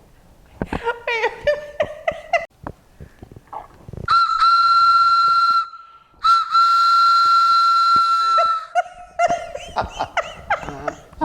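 A whistle blown in two long, steady, high blasts of about two seconds each, with a short break between them.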